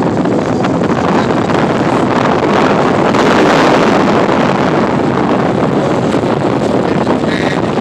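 Steady rushing wind noise on the microphone, mixed with the running noise of a car driving.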